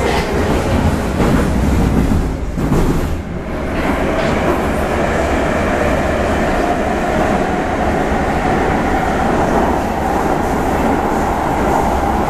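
Prague metro train running through the tunnel: a steady rumble and clatter of wheels on rails, with a whine that rises slightly in pitch and then holds steady. The sound drops briefly about three seconds in.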